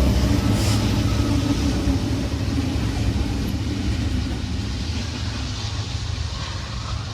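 Diesel freight locomotives running with a low engine drone that fades steadily.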